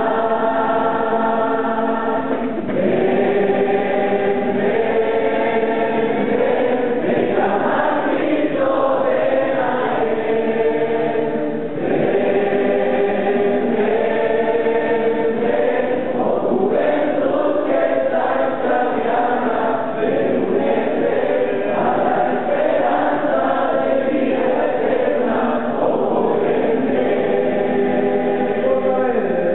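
A group of voices singing a gospel hymn together in long, held notes.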